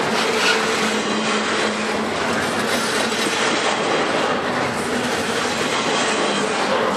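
Double-stack intermodal container well cars rolling past at close range: a loud, steady noise of steel wheels running on the rails.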